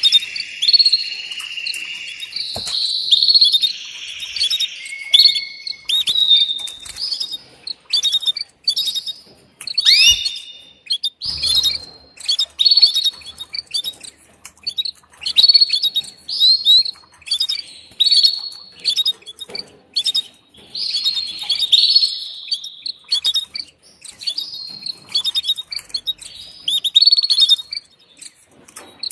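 Female canary giving her mating call: a run of short, high chirps and quick down-sweeping notes, several a second. It is the call a hen canary uses to summon a male when ready to breed.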